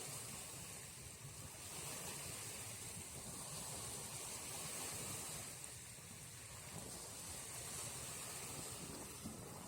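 Flowing water with gusts of wind buffeting the microphone, under a steady high hiss.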